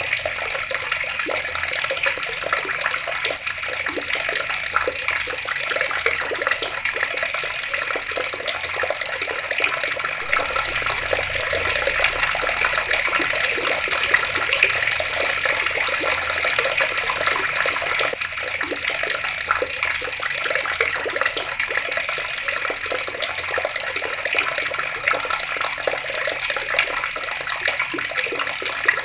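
Water tap running in a steady, unbroken stream, splashing continuously.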